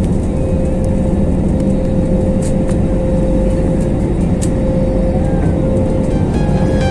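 Airbus A321neo cabin noise in flight: a steady rush of engine and airflow with a constant mid-pitched hum running through it.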